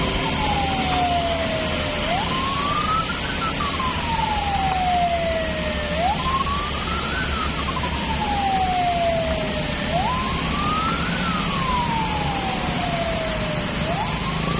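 Emergency-vehicle siren wailing: a quick rise in pitch, then a slow fall lasting about three seconds, repeating every four seconds, over the steady rumble of road traffic.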